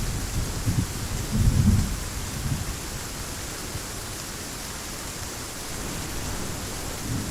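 Heavy rain falling steadily with thunder rumbling through the first two seconds or so, fading out to leave the even hiss of the rain.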